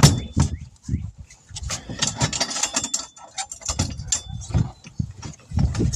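Irregular knocks, clanks and scraping from hands and tools working on a truck wheel and tire, with a sharp knock right at the start.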